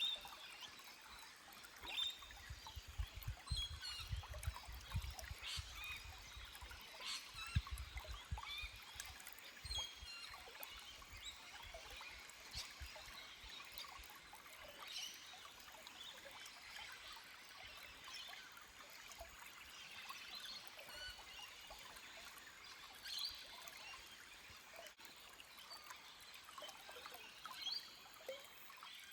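A small forest stream trickling and gurgling over rocks, with birds chirping in short calls throughout.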